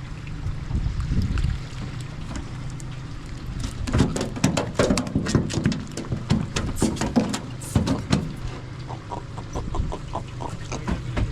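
Small giant trevally being landed and handled on a boat: a run of sharp knocks and rattles in the middle as it thrashes, then a row of short, quick ticks near the end, over a steady low hum.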